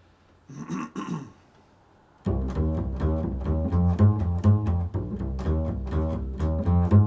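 Double bass played in a quick, improvised run of low notes, starting about two seconds in.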